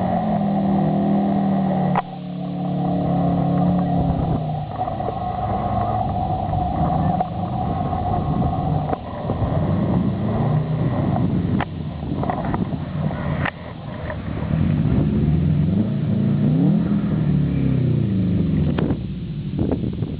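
Subaru WRX STI's turbocharged flat-four engine being driven hard, its pitch rising and falling repeatedly as it revs up and backs off. A few sharp knocks are heard along the way.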